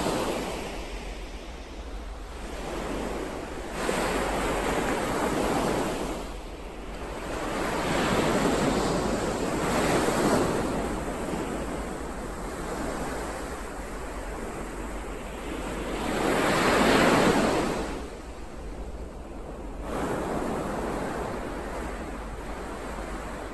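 Ocean surf: waves breaking and washing in, in swells of rushing noise that rise and fall every few seconds, the biggest about two-thirds of the way through.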